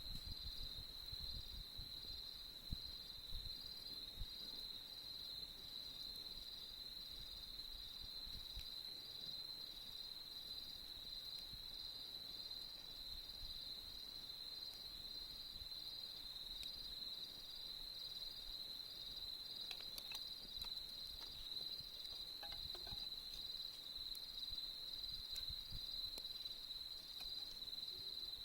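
Crickets trilling in one steady, unbroken high-pitched chorus, with a few faint scattered crackles from the campfire.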